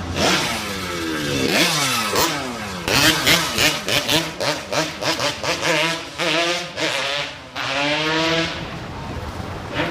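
Yamaha RD 135 two-stroke twin motorcycle engine being revved hard over and over, its pitch climbing and dropping with each blip of the throttle, with a crackly rattle from the exhaust around the middle.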